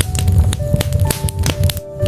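Wood fire crackling in a fireplace, with many sharp pops over a steady low rumble of burning logs. Soft music with held notes plays along with it.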